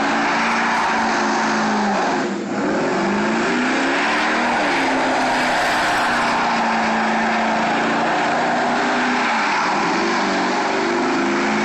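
A car doing a burnout: the engine is held at high revs while the spinning rear tyres screech. About two seconds in the revs drop briefly and climb back up, then hold steady again.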